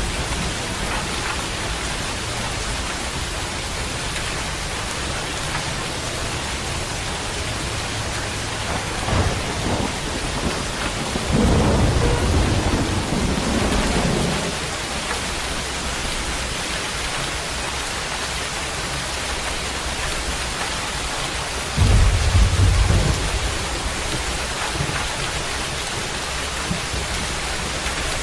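Steady rain with thunder rumbling low: a long roll about a third of the way in, a shorter one about two-thirds in, and a faint swell just before the first.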